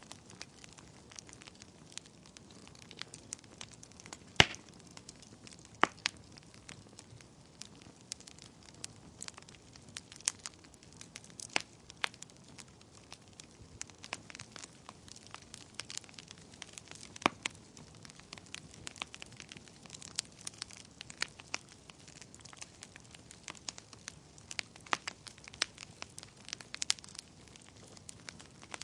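Wood fire crackling in a fireplace: a soft bed of flame noise with frequent irregular pops and snaps of burning wood, the loudest a sharp pop about four and a half seconds in.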